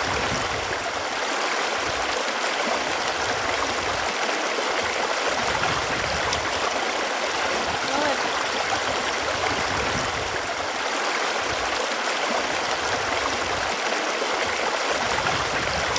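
Running water flowing steadily with a continuous rushing hiss and occasional small gurgles.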